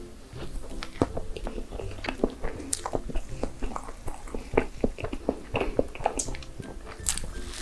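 Close-miked mukbang eating of cake: soft, wet chewing with many short, sharp mouth clicks and smacks.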